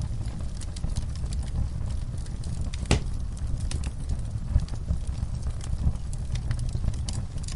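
Wood fire burning in a fireplace: a steady low rumble of flames with scattered crackles and pops, one sharper pop about three seconds in.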